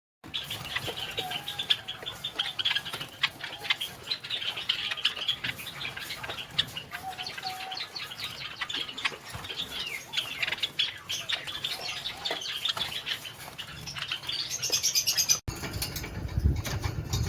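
A flock of caged birds chirping busily and continuously, with quick wing flutters and small clicks among them.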